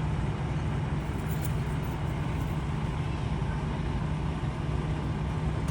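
Steady low hum of a large vehicle's engine running, even throughout with no siren.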